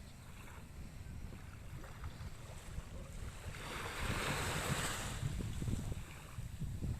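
Calm sea with a small wave washing in and hissing out over a couple of seconds around the middle, under a steady low rumble of wind on the microphone.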